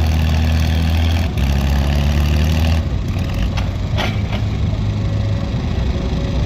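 Antique farm tractor engine running steadily with a deep, even note. About three seconds in the note breaks up into a rougher, uneven run, with a few short clicks just after.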